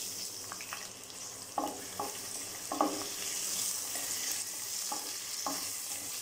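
Chopped shallots sizzling in hot oil in a kadai. A spatula scrapes and knocks against the pan about seven times as they are stirred.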